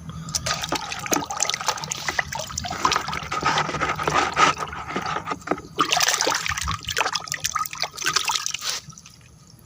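Water splashing and dribbling while a muddy plastic toy mask is rinsed and rubbed by hand, with small knocks of the plastic. It stops about a second before the end.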